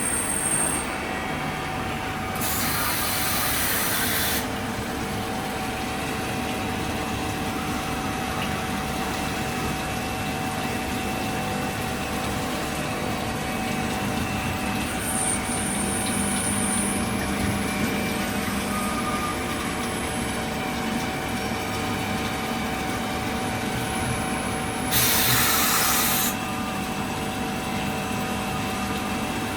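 Star SB-16 CNC sliding head lathe running, a steady machine hum with several constant tones. Two loud hissing bursts of about two seconds each come near the start and near the end.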